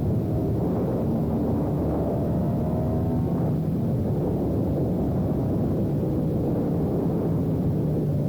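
Sportbike engine running under way with wind rush over the microphone, its pitch rising and falling a little as the throttle changes.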